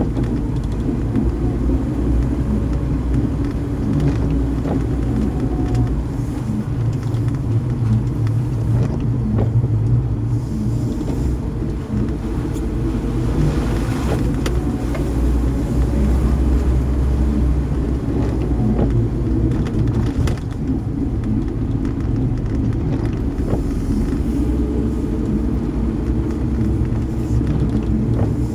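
Car driving: a steady low rumble of engine and road noise, with a few faint ticks scattered through it.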